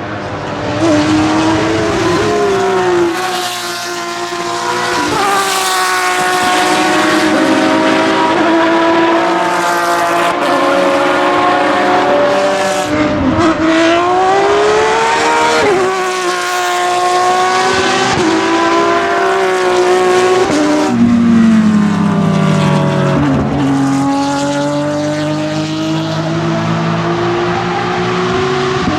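Porsche 911 GT3 R (997) race car's flat-six engine with open exhaust, loud throughout, its pitch repeatedly climbing under acceleration and falling away as it shifts and brakes.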